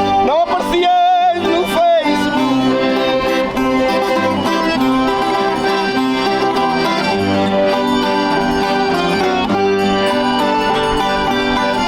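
Live folk music: an accordion playing along with string instruments at a steady beat.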